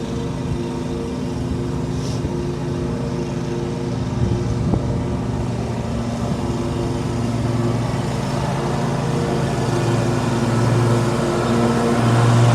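Lawn mower engine running steadily, growing louder over the last few seconds.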